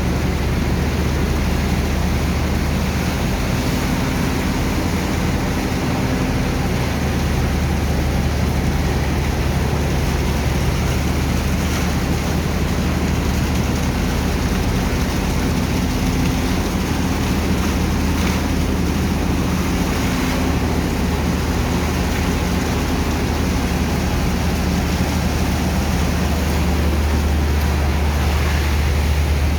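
A sand dredger's engine and pump run steadily with a deep, even drone, under a constant rushing noise.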